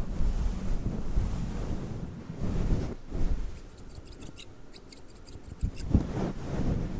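A fluffy microphone windscreen is rubbed against the microphone, giving a low rumbling swish. Over the second half, scissors snip close to the microphone in quick small crisp clicks.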